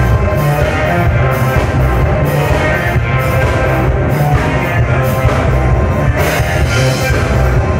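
Live rock band playing loudly, with drum kit, bass and electric guitar, cymbal hits about twice a second.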